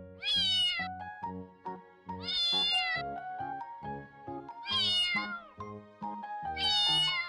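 A cat meows four times, about every two seconds, over background music made of short, repeated bass notes.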